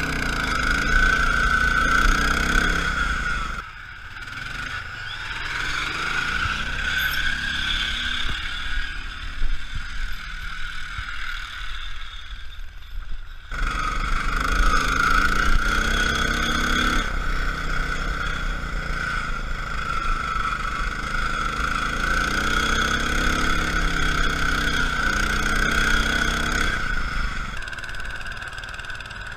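Lawn tractor engine running and revving up and down under a steady high whine. It drops back to a lower, rougher sound for about ten seconds, then picks up again.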